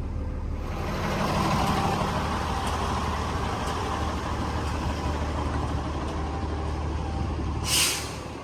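A box truck's engine idling with a steady low hum under a broad outdoor rushing noise, and a short, sharp hiss just before the end.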